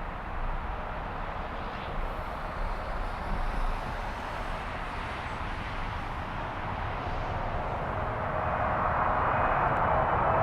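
Jet airliner's engines heard from a distance, a steady rushing noise that grows louder over the last few seconds as the aircraft comes closer, with an engine whine coming in near the end.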